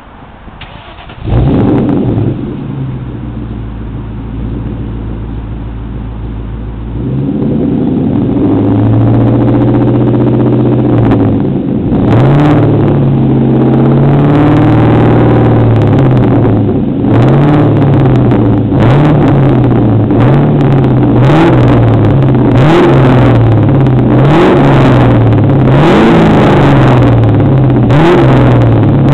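2001 Ford Mustang GT's V8 on straight pipes, with no mufflers, starts about a second in and idles. It is then held at a higher idle and revved over and over, the pitch rising and falling in quick blips toward the end.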